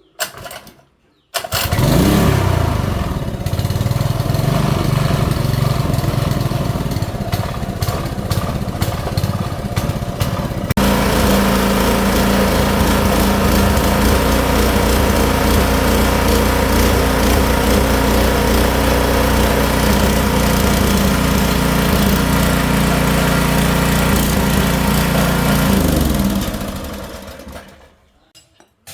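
A small restored gasoline engine from farm machinery starts suddenly about a second and a half in, its note rising as it picks up speed, then runs steadily. About 11 seconds in its sound changes abruptly to a steadier, deeper note. Near the end it is shut off and runs down to a stop.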